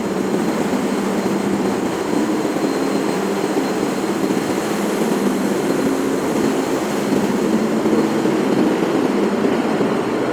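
Steady, loud din of ship's engine-room machinery running, with a thin constant high whine over it.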